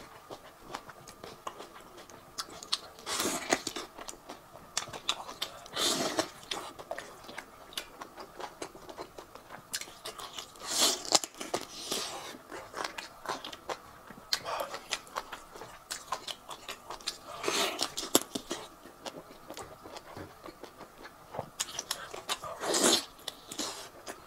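Close-miked chewing and biting of meat off a bone: wet mouth clicks and smacks throughout, with louder bursts of biting every few seconds.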